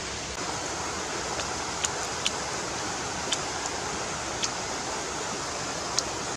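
A person chewing grilled shrimp, with about five sharp wet mouth clicks over a steady rushing hiss.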